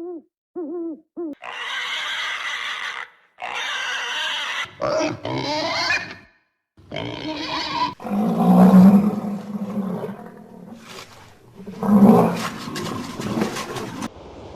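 A run of different animal calls one after another: a few short hoots at the start, then several harsh calls of about a second each, and two loud, low calls in the second half.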